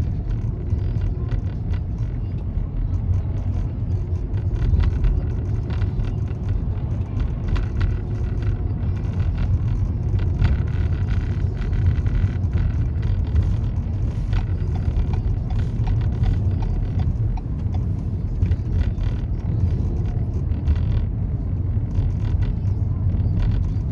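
Car driving: a steady low rumble of engine and road noise, with faint crackling throughout.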